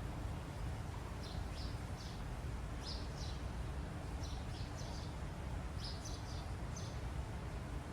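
Small birds chirping: short high notes in quick clusters every second or so, over a steady low rumble.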